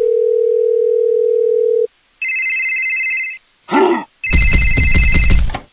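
Telephone sound effects: a steady dial tone for about two seconds, then a trilling electronic phone ring in two bursts. A short squeak falls between the bursts, and the second ring sounds over a loud noisy clatter.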